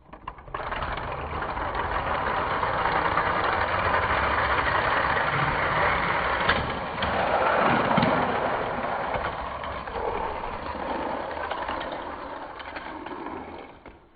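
Car engine sound effect, running steadily for the length of the race with a swell about two thirds of the way through, laid over a toy die-cast car race.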